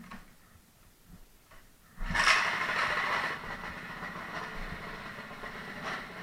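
Small mini bike engine starting abruptly about two seconds in, then running steadily at idle.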